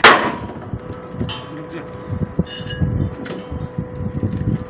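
A heavy impact as a released railway sleeper lands in a dump truck's body, followed by a few lighter knocks over a steady machine hum.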